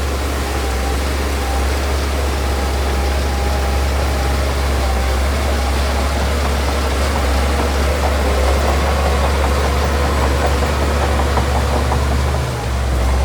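Diesel engine of heavy earthmoving machinery running steadily at a low, even pitch, with a brief dip and surge in level near the end.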